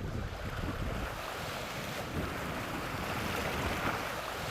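Sea waves and surf washing, with wind on the microphone.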